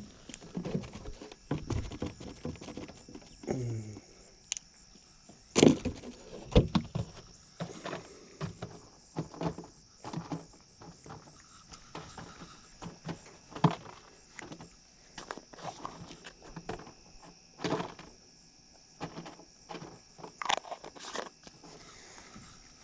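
Steady high insect chirring, with many irregular knocks and clicks over it, the loudest about five and a half seconds in.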